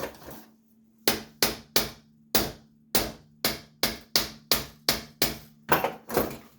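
About a dozen sharp, hard knocks, roughly two a second, starting about a second in: the carburetor being tapped or knocked to shake loose a check ball stuck inside it.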